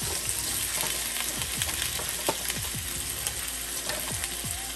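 Diced white potatoes sizzling in hot oil in a pan as more pieces are dropped in. The sizzle is a steady hiss with frequent small crackles and pops.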